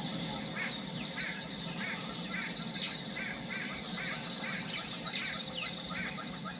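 Birds calling: a fast run of short, repeated chirps, about two or three a second, with higher twittering notes over them.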